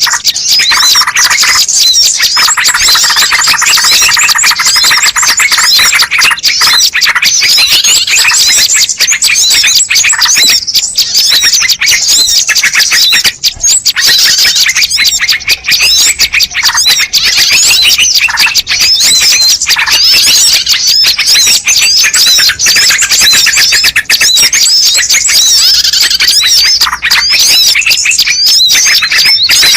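Bird-lure recording: a loud, dense chorus of many small birds chirping and twittering over one another without pause, meant to call wild birds in.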